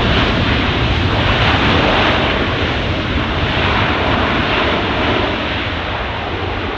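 Jet engine noise from a Lufthansa Airbus A350-900 on its arrival, its Rolls-Royce Trent XWB engines making a steady, dense noise that slowly gets quieter.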